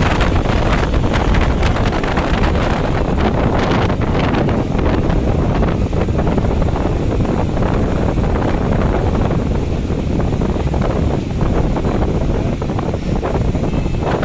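Wind buffeting the microphone over the running noise of a moving EMU electric suburban train, loud and steady.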